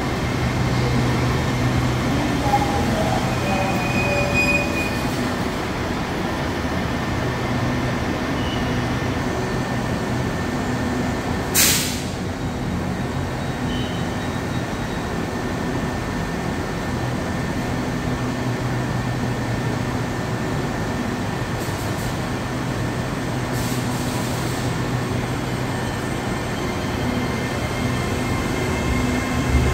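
Train noise: a steady rumble with a low hum, and a short, loud hiss about twelve seconds in.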